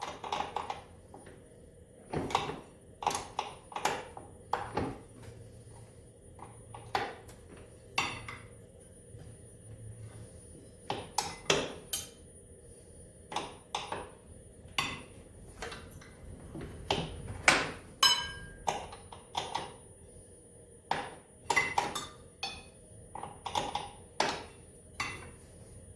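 Wrenches and loose metal parts clinking and knocking against a snowmobile's engine parts during disassembly: irregular sharp clinks, some ringing briefly, about one or two a second.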